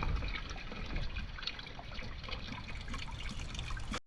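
Water from a garden hose trickling and splashing, with many small irregular splashes as pigs play in the stream.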